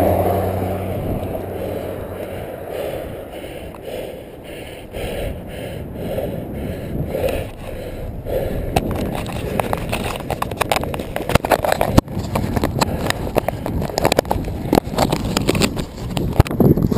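Wind buffeting the microphone: a low rumble that turns into dense crackling gusts from about halfway through.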